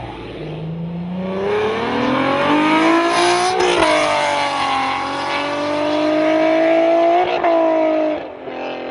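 First-generation Honda NSX V6 accelerating hard, engine pitch climbing steadily, dropping at an upshift about four seconds in, then climbing again to a second shift near the end.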